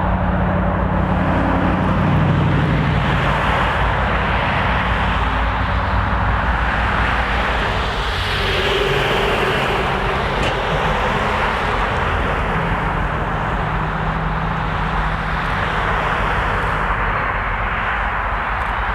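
Diesel freight locomotives, a GE B39-8E and EMD GP38s, running past under power with a steady low engine drone over the rushing noise of the rolling train.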